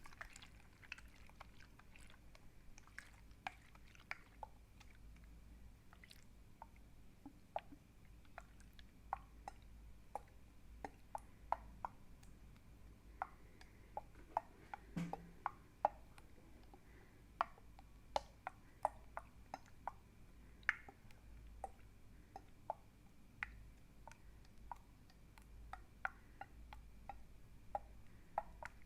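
Wet, liquid clicking sounds close up, sharp and irregular at about one to two clicks a second, over a faint steady hum.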